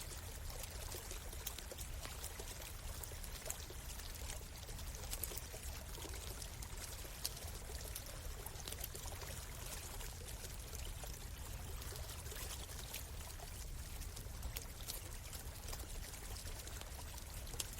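Forest stream flowing steadily, with scattered sharp crackles and pops from a wood campfire.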